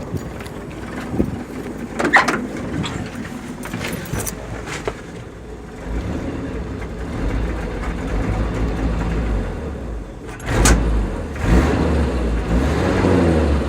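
A few clicks and knocks, then the 1964 Chevy truck's 250 straight-six running from about six seconds in, with a sudden rise in revs just past ten seconds. The engine is still cold and is being held at higher revs.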